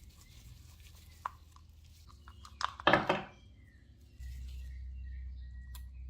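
A light click, then a brief clattering rattle of small hard objects being handled, and another click near the end. A low steady hum starts partway through.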